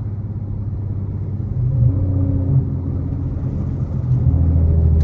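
Infiniti Q50 3.7's V6 exhaust, fitted with test pipes and an ISR Y-pipe, giving a low drone while driving. It gets louder about a second and a half in and again near the end as the car pulls harder.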